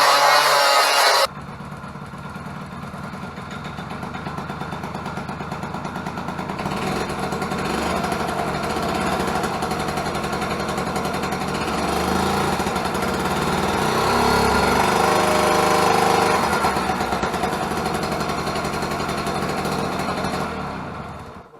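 Yamaha Passol scooter's small two-stroke single running with an expansion chamber fitted, a fast even buzz whose level slowly rises and falls before fading out near the end.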